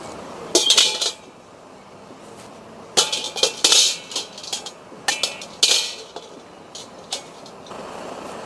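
Clinking and scraping of hard objects in several short bursts: about a second in, again around three and five seconds, and once more near the end.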